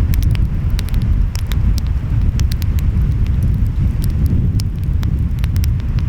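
Wood fire crackling, with many sharp, irregular pops, over a steady low rumble of ocean waves and wind.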